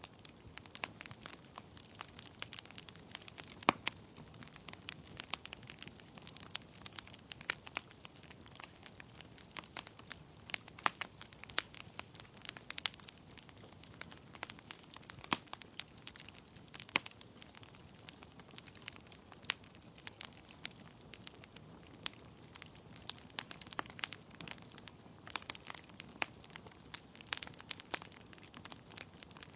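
Wood fire burning in a fireplace: logs crackling with many sharp, irregular pops over a soft steady hiss of the flames.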